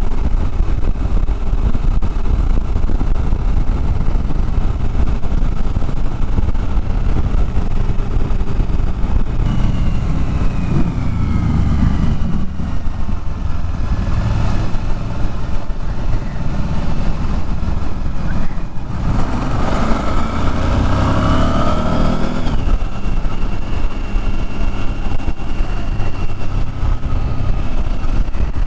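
Motorcycle engine running under way, with steady road and wind noise. The engine pitch drops about ten seconds in and climbs again about twenty seconds in, as the bike slows and then accelerates.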